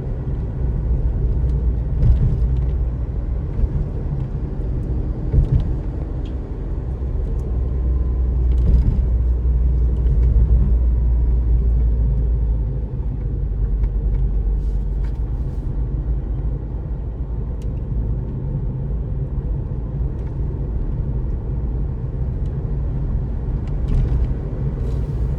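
Steady low rumble of a vehicle being driven through city traffic: engine and road noise.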